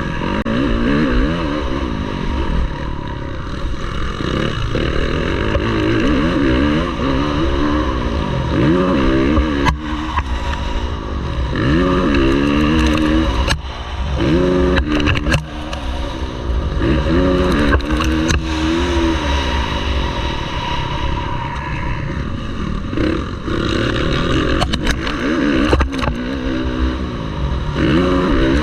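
MX1 motocross motorcycle engine revving hard and backing off again and again as it races round the track, the pitch climbing and dropping every couple of seconds. There are sharp knocks now and then.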